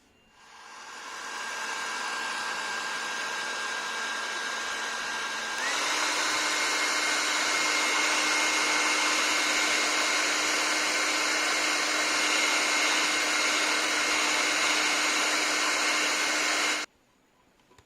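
Handheld electric hot-air blower running. It comes up to speed over about two seconds, switches to a higher, louder setting about six seconds in, and shuts off suddenly near the end.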